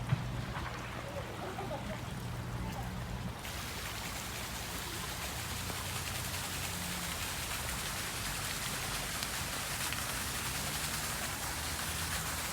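Steady hiss of running or splashing water that cuts in abruptly about three seconds in, after a quieter stretch of low hum.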